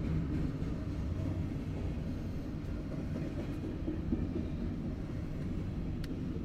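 Double-stack intermodal container train of well cars rolling past, its wheels on the rails making a steady low rumble.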